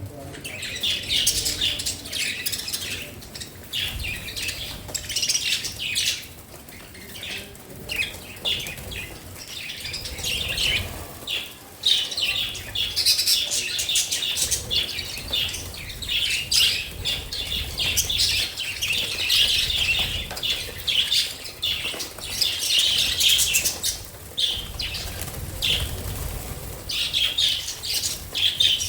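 A flock of pet budgerigars chattering, with continual rapid chirps and warbles overlapping one another.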